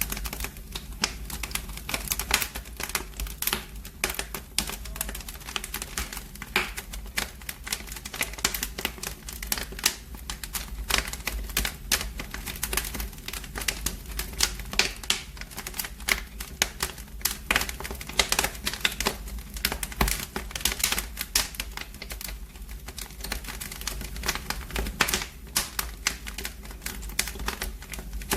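Wood fire burning in a fireplace, crackling with a dense, irregular run of sharp pops and snaps over a steady low rumble.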